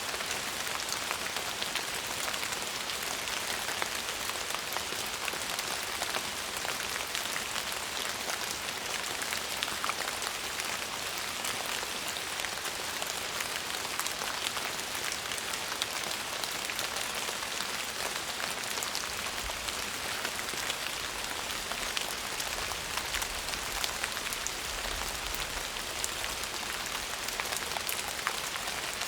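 Steady rain falling on a surface: an even hiss with many small drop ticks. A faint low rumble comes in about twenty seconds in and fades a few seconds before the end.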